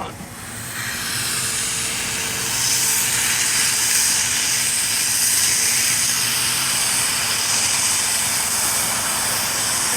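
Road line-painting truck passing close by, with a loud, steady hiss over a low engine hum. The hiss builds over the first couple of seconds and then holds.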